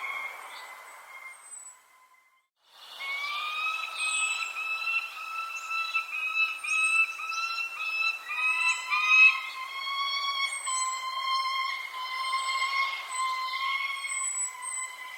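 Birdsong: long, steady whistled notes broken into short phrases, with short high chirps over them. It cuts out briefly about two seconds in.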